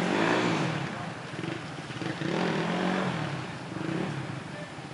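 Dual-sport motorcycle engine running and being revved in three rising-and-falling swells, just refired after the rider shut it off in deep water.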